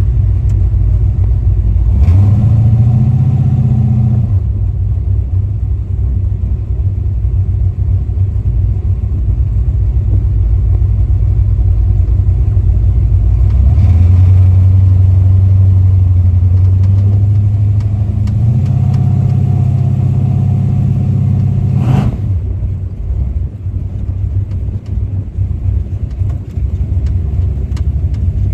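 V8 engine of a Chevy LUV pickup running as the truck is driven, a deep rumble that rises with the throttle a couple of seconds in and swells again for several seconds from about halfway. A single sharp knock comes about three quarters of the way through.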